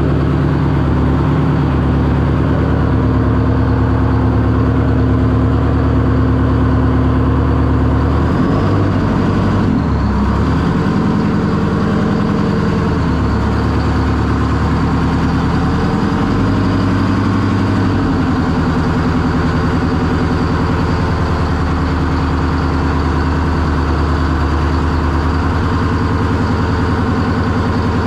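Detroit Diesel engine of a classic diesel monster truck running steadily, warming up after months of sitting. Between about eight and eighteen seconds in the engine speed wavers, its pitch dipping and rising a few times, then it settles back to a steady run.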